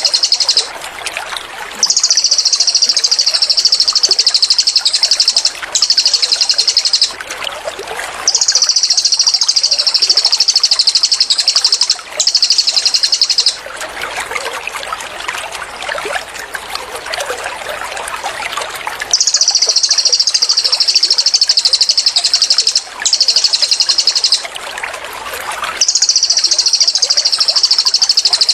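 Cililin song bird's rapid 'tembakan' song: long, fast, high-pitched trills of a few seconds each, repeated six times with short pauses, over a steady trickle of running water that comes through in the gaps.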